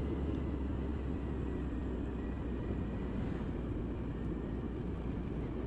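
Motorcycle on the move: a steady low rumble of engine, wind and road noise picked up by the rider's own microphone under a windsock.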